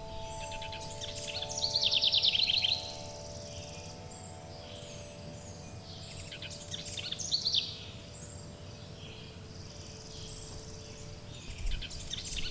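Forest birdsong: a bird sings a fast trilled phrase of about a second three times, some four to five seconds apart, over the long ringing tones of wind chimes and a low steady rumble.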